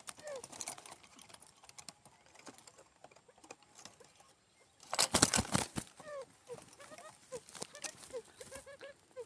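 Quail calls used to lure quail: short single notes, each falling in pitch, a few scattered, then coming more often near the end. A loud noisy burst of under a second about five seconds in is the loudest sound.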